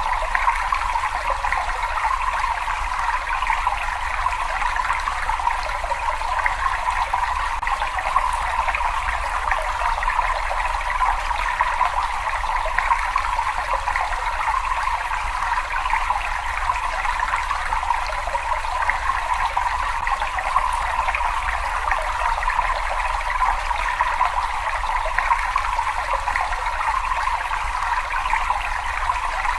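Steady trickling, flowing water echoing in a cave, unchanging throughout.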